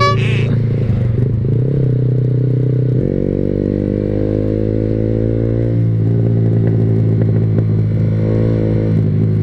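Yamaha R15 V3's single-cylinder engine running through a new SC Project aftermarket exhaust while riding, the exhaust still soft-toned rather than loud and blatting. The engine note holds steady, then steps to a new pitch about three seconds in and again near six seconds.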